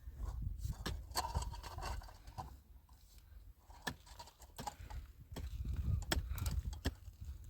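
Irregular light clicks and knocks over a steady low rumble.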